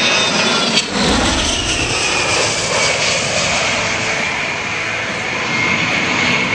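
A-10 Thunderbolt II's twin TF34 turbofan engines running loudly as the jet passes, the high whine falling steadily in pitch over several seconds.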